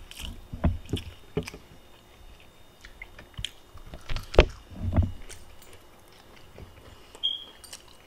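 A person chewing a mouthful of steak and rice close to the microphone, with irregular small clicks and soft low thuds. There is one sharp click a little over four seconds in.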